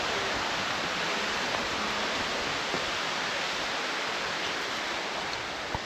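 Steady rushing and splashing of a tall free-falling waterfall pouring into its pool, an even, unbroken roar of water.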